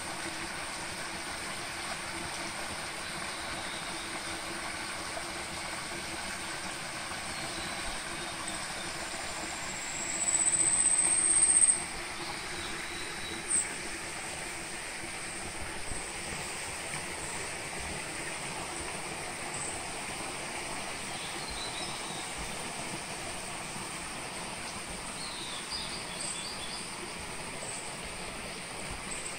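Mountain forest ambience: a steady rushing noise, with a faint high steady buzz and short bird chirps now and then. About ten seconds in, a loud high call rises in pitch for nearly two seconds.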